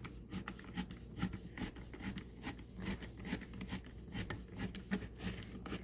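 Hose clamp being screwed down tight around the heated plastic tube of a backpack blower: a steady run of short rasping clicks, several a second.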